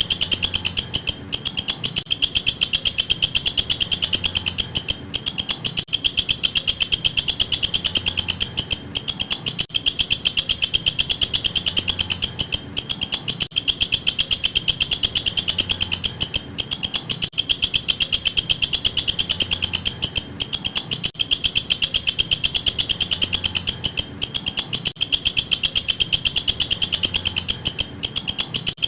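Walang kecek, an Indonesian katydid, calling: a loud, continuous, high-pitched trill of very rapid clicks, broken by a short gap about every four seconds.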